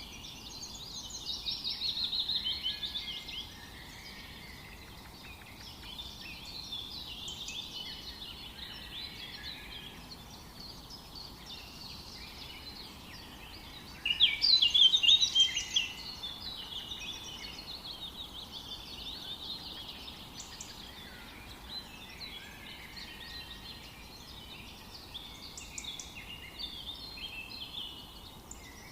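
A chorus of forest birds chirping and singing over a faint steady background hiss. A louder, rapid burst of song comes about two seconds in and another about halfway through.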